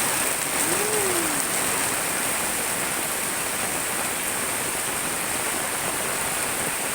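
Very heavy tropical rain pouring down, a dense, steady hiss. About a second in there is a short, faint rising-and-falling tone.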